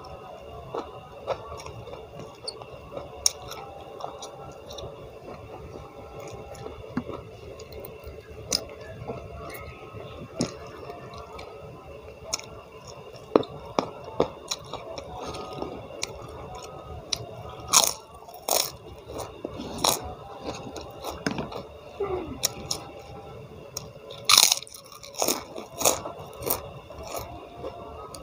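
A person chewing and biting food close to the microphone: wet mouth sounds with crisp crunches and clicks, the louder crunches coming in the second half.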